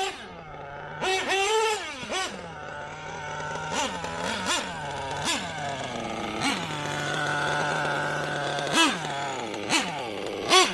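Brand-new LRP .30 two-stroke nitro engine in an HPI Savage RC truck, being run in: it idles steadily and revs up in repeated short bursts as the truck is driven, with a longer steady stretch before another rev near the end.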